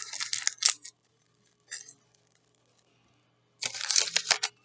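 Plastic candy wrapper crinkling as a chewy sweet is unwrapped: a burst of crinkling at the start, a brief rustle a couple of seconds later, and a longer burst near the end.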